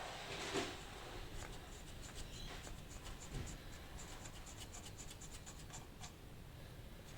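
Faint scraping and rubbing of hand tools working at the flywheel bolts of a Holden 253 V8 engine. There is a light knock about half a second in and a quick run of light clicks in the middle.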